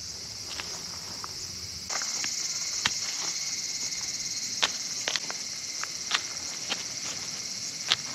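Steady high-pitched insect chorus that grows louder about two seconds in, with scattered light clicks and taps over it.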